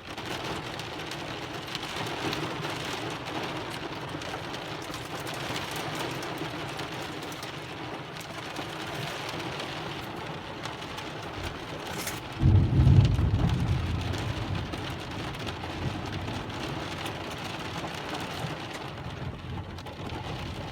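Heavy rain falling steadily, with a sudden thunderclap about twelve seconds in that rumbles low for a couple of seconds and fades.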